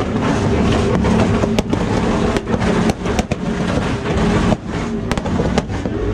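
Car engine held on a two-step launch limiter, running loud with sharp exhaust pops and bangs going off every second or so.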